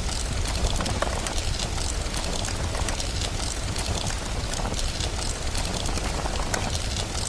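Steady rain hiss over a constant low rumble, with the dense, irregular snapping crackle of a wood fire.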